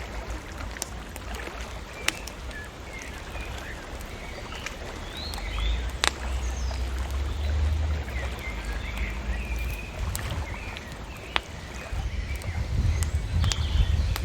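Bonfire crackling with scattered sharp pops, over birds chirping and a low, uneven rumble that swells about halfway through and again near the end.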